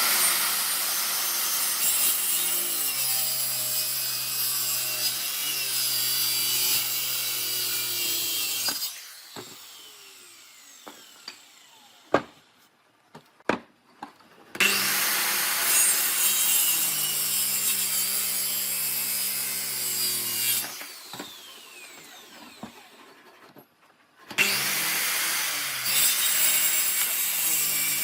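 A power tool working wood, running in three long passes with a steady motor hum under a harsh rasping, each pass trailing off as the motor winds down. A few sharp knocks of wood being handled come in the pause between the first two passes.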